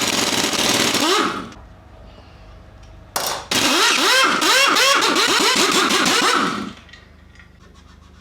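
Power impact wrench hammering bolts loose in two bursts, the motor's pitch surging up and down with the blows; a sharp click just before the second burst.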